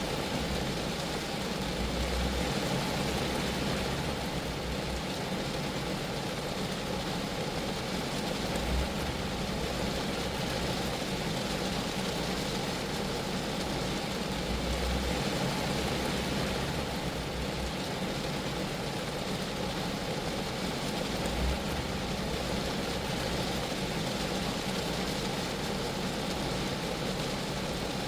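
Steady rain falling on a Geo Metro's car body: a dense, even hiss of drops, with irregular low rumbles underneath.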